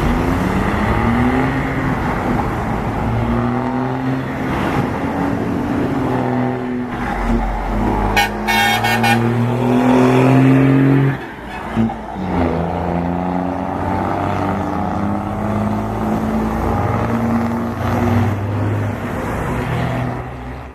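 Heavy truck's diesel engine running hard, its pitch climbing and falling as it revs, with a sudden drop in level about 11 seconds in. A short, rapidly pulsing horn-like toot sounds about 8 seconds in.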